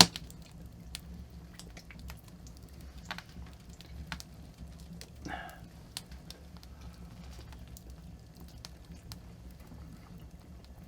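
Rain dripping and pattering on the cabin, heard from inside as scattered irregular ticks over a low steady rumble.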